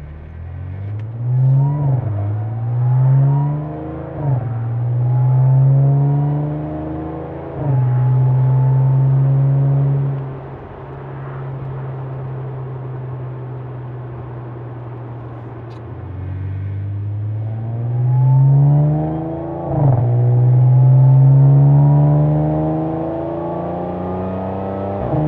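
2014 Audi S4's supercharged V6 through a custom exhaust (X-pipe, resonators deleted, Borla Pro XS mufflers) pulling hard: the engine note climbs then drops sharply at each quick gear change, about three times early on and again near the end, with a steadier cruising stretch in between. Loud and deep, with a little rasp.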